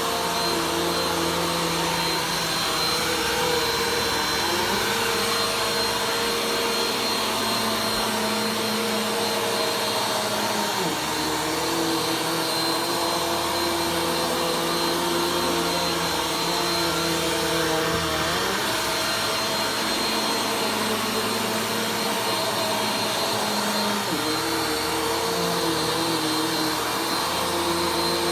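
Vacuum cleaner running continuously during slow vacuuming, a steady motor hum and airflow whose pitch shifts a few times as it is worked over the floor.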